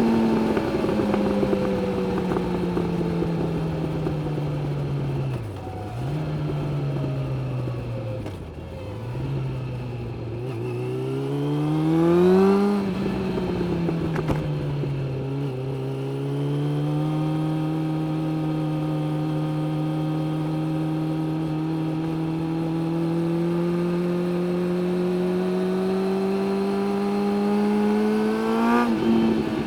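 Suzuki GSX600F inline-four motorcycle engine heard from the rider's seat. The revs fall off early with two brief dips, climb under acceleration to a peak about halfway through, drop at a gear change, then hold a steady cruise that slowly rises before another drop near the end.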